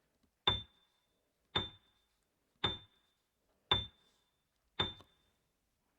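Five short ticks, about one a second, each with a brief high ping ringing after it, like a countdown timer sound effect marking the pause.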